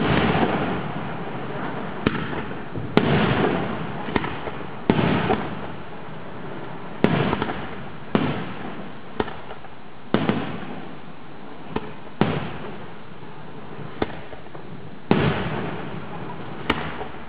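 Aerial fireworks shells bursting one after another, about fourteen sharp bangs spaced a second or two apart, each followed by a fading rumble.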